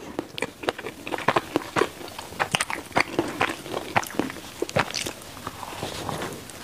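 Close-up chewing of a sausage bread roll with black pepper sausage inside: soft bread and sausage being chewed with many small wet mouth clicks, then a fresh bite into the roll near the end.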